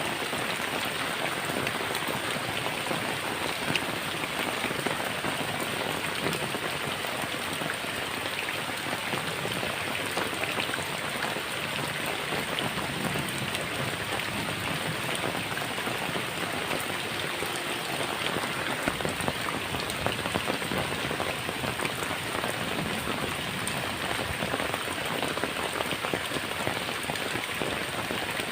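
Heavy rain drumming steadily on a tin roof, a dense continuous patter of drops on the metal sheets.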